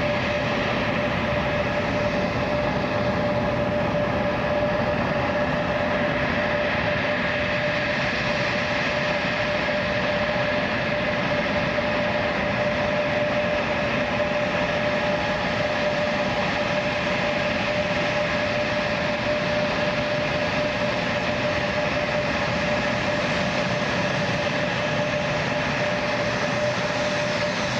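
Steady aircraft engine noise: an even rush with a constant whine held at one pitch.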